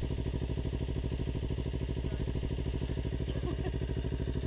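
Kawasaki Ninja 300's parallel-twin engine running steadily, with an even pulsing beat and no change in revs.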